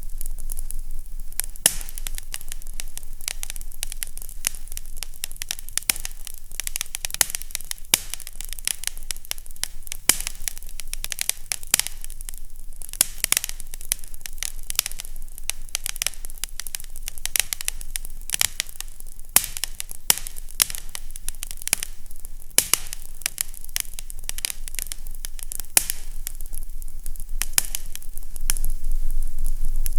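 Fireplace fire crackling, with frequent sharp pops and snaps over a steady hiss and a low hum.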